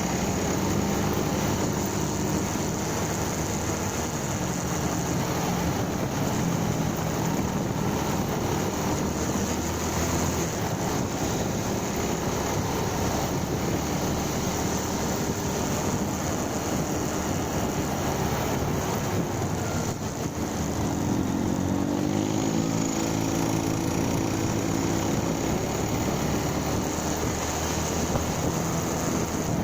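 Motorcycle engine running while riding, heard with steady road and wind noise. About twenty-one seconds in, the engine note briefly drops, then rises as the bike picks up speed.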